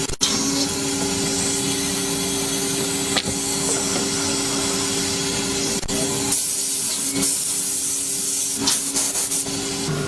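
Woodworking panel machinery running: a steady mechanical hum with a loud hiss of air over it, a few brief breaks and some rougher stretches in the second half.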